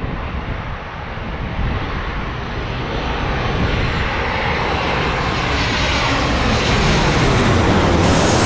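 Jet airliner on short final, its engine noise and rushing air growing steadily louder and brighter as it closes in for landing.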